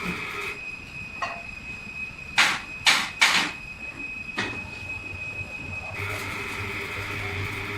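Boiler-fabrication workshop noise: a steady high whine, with three loud bangs in quick succession a little before the middle and a low hum coming in after them.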